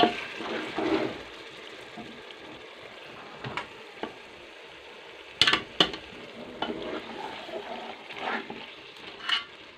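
Beef and yogurt masala with green chillies sizzling as it fries in an aluminium pot, stirred and scraped with a wooden spoon. A few sharp knocks cut through, two close together about halfway through and one near the end.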